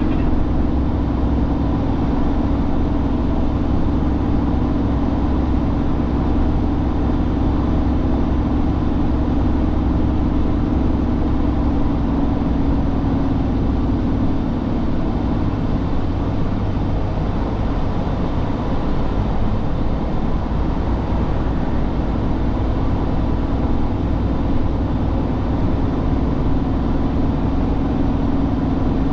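A heavy truck's engine running steadily, a deep even hum that eases slightly about halfway through and then comes back up.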